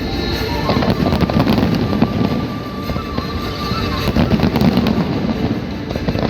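Fireworks display: many shells bursting and crackling in quick succession over a dense rumble.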